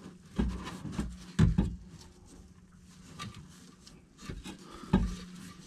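Scattered knocks and clunks, about five of them, the loudest near the start and just before the end, as a titanium cat-back exhaust section is handled and fitted up under the car. A steady low hum runs beneath them.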